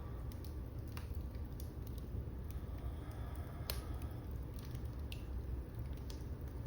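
Wood fire burning in a fireplace, with a steady low rumble and scattered sharp crackles and pops, the loudest a little past halfway.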